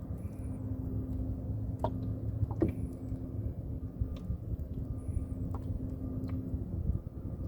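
Small boat motor running steadily with a low hum, with a couple of sharp knocks a few seconds in.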